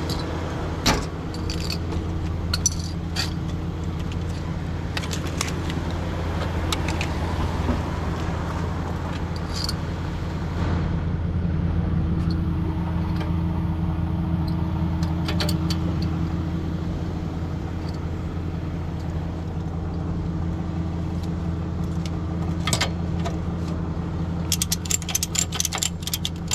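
Tow truck's diesel engine running steadily, with scattered sharp metallic clinks and rattles, most dense near the end.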